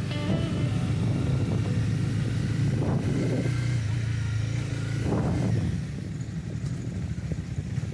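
Honda CB300R's single-cylinder engine running under way, heard from the rider's position as a steady drone with two brief swells about three and five seconds in. It gets quieter in the last two seconds.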